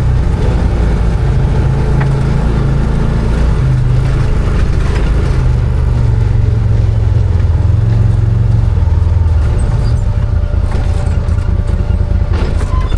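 Arctic Cat Wildcat 1000 4X side-by-side's V-twin engine running under way, its engine speed rising and falling as it drives.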